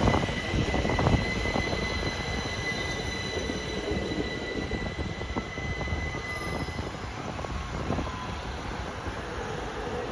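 Train running through on the rails with a steady high-pitched wheel squeal over the rumble. The squeal fades out about two-thirds of the way through, and the sound eases off after the first second.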